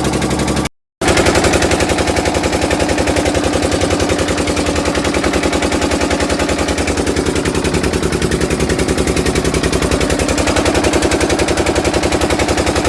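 An engine running steadily with a rapid, even pulsing beat, cut off briefly for a fraction of a second just under a second in.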